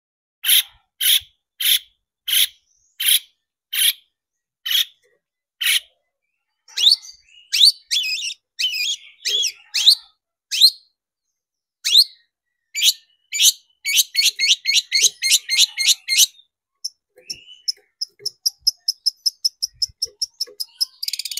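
Long-tailed shrike (cendet) singing: a string of harsh, evenly spaced calls, then varied chattering with rising whistled notes, a rapid run of notes, and near the end a fast, thin trill.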